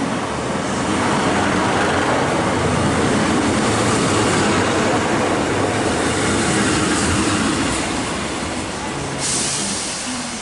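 Diesel passenger train running through the station platform: a wide rumble of wheels and engine swells, holds, then fades. A short burst of hiss comes near the end.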